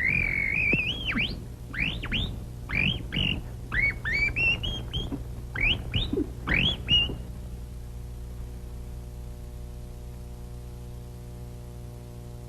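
A canary chirping: a run of quick, rising, whistled chirps for about seven seconds. After that only a steady low hum remains.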